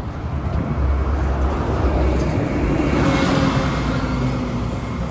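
Road traffic: a motor vehicle passing by, its engine rumble swelling to a peak about three seconds in and then easing off, with a faint engine tone that drops slightly in pitch as it goes by.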